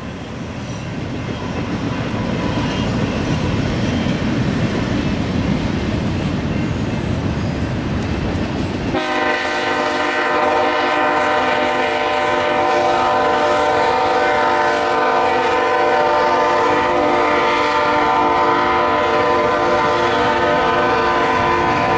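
Double-stack intermodal freight cars rumbling past on the rails. About nine seconds in, a multi-note train horn chord comes in and is held steadily to the end.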